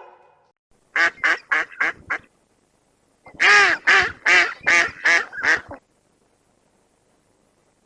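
An animal calling in two quick runs of short, pitched calls, about six in the first run and seven in the second, with a short pause between.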